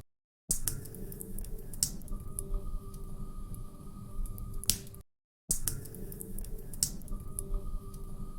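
Log fire crackling in a fireplace: a steady low rush of flame with a few sharp pops. The same short recording is looped, cutting briefly to silence about every five seconds.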